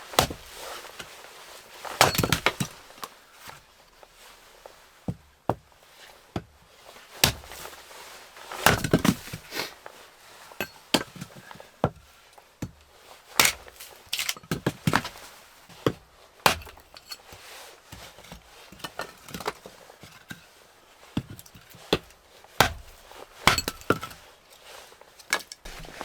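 Wood being broken and chopped: irregular sharp cracks and knocks, with a loud strike every second or two.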